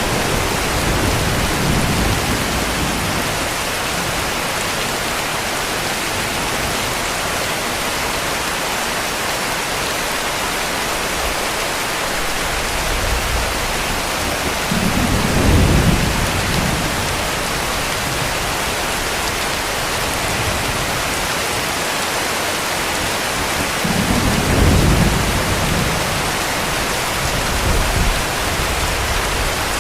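Steady heavy rain hissing, with distant thunder rumbling low about halfway through and again about three quarters of the way through.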